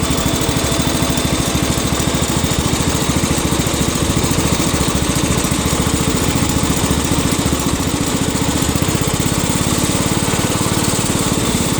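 Cub Cadet 102 garden tractor's 10-horsepower single-cylinder engine running steadily just after a cold start, with an even, unchanging firing beat. The exhaust is one the owner says still needs fixing.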